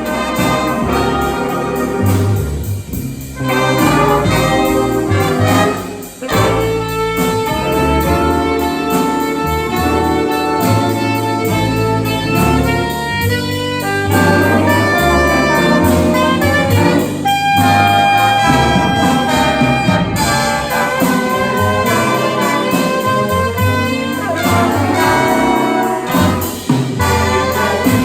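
A school jazz big band playing, with trumpets, trombones and saxophones holding sustained chords over a moving bass line.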